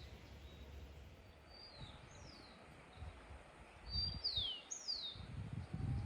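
A wild bird calling in a series of about six short, high, downward-slurred chirps, the loudest about four to five seconds in, over low rumbling noise on the microphone.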